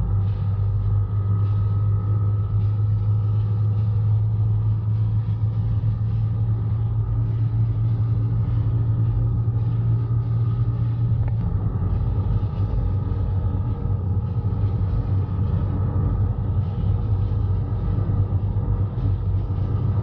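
Audi RS6 flat out in top gear near its top speed, heard from inside the cabin: a steady low engine drone over road and wind noise as the speed climbs slowly.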